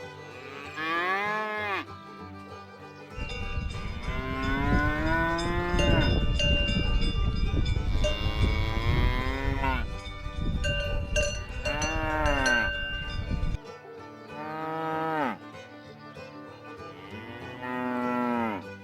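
Cows mooing, about six calls in turn, the middle ones long and drawn out, with a noisy low rumble under the calls in the middle of the stretch.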